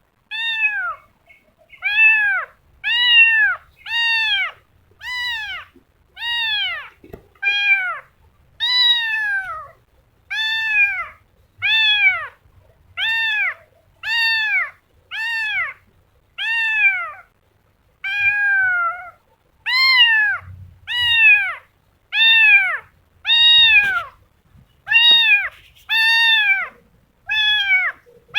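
A kitten meowing over and over, a high call rising and falling in pitch roughly once a second without pause.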